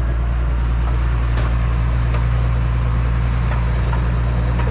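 Forestry mulching machine's engine running steadily, a deep drone with a thin high whine over it and a faint tick or two.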